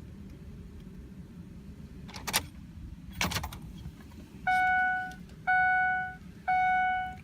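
Two sharp clicks, then from about four seconds in a pickup truck's dashboard warning chime, a single high ding repeating about once a second, as the key is switched on before the cold start of a 2003 Ford 6.0 Power Stroke. The engine is not yet running.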